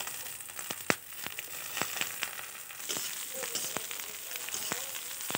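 Green peas sizzling in hot oil in a kadhai, just tipped in on top of frying onion, garlic and ginger, with a steady hiss and scattered sharp clicks and crackles.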